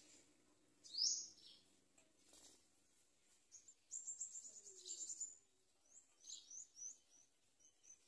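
High-pitched bird chirps: one loud chirp about a second in, then a rapid run of chirps around four to five seconds, and a string of short chirps near the end.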